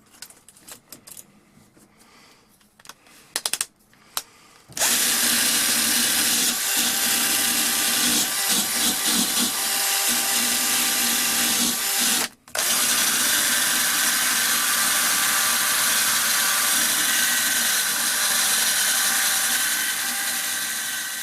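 Craftsman power drill spinning a wire wheel against a rusty steel auger bit: a steady whir with a scratchy hiss that starts about five seconds in and stops briefly once near the middle. The first few seconds hold only light handling clicks.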